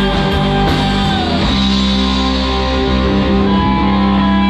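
Live rock band playing with electric guitar to the fore, settling into long held notes about a second and a half in.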